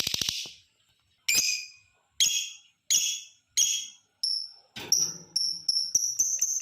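Lovebird calling: a fast chatter that stops just after the start, four sharp separate calls about a second apart, then high notes that quicken into a rapid, even trill near the end, the long 'ngekek' call.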